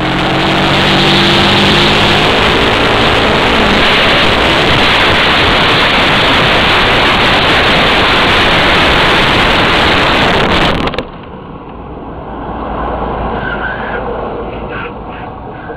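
Loud, steady rushing noise of a motorcycle riding at speed, with the engine under it. About eleven seconds in it cuts off suddenly to a quieter vehicle sound.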